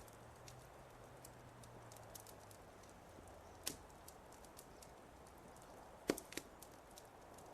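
Fireplace fire crackling softly: scattered small snaps and clicks over a faint hiss, with a louder pop about halfway through and the sharpest one near the end.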